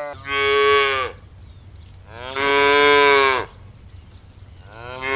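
Cow mooing: three steady calls of about a second each, the third starting near the end.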